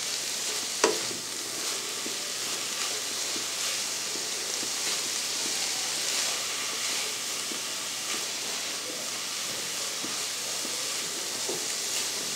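Shredded chicken and vegetables sizzling in a frying pan while a spatula stirs them: a steady frying hiss with light scraping ticks, and one sharper knock of the spatula about a second in.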